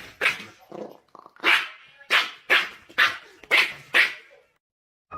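A dog barking repeatedly, about eight short barks roughly half a second apart, stopping near the end.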